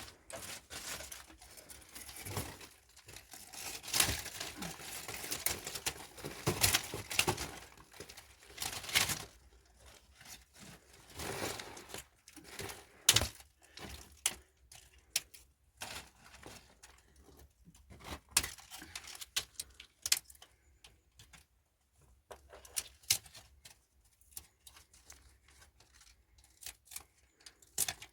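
Irregular rustling, crinkling and tearing noises with scattered sharp clicks and knocks, as of material being handled and worked; busiest in the first half, sparser later.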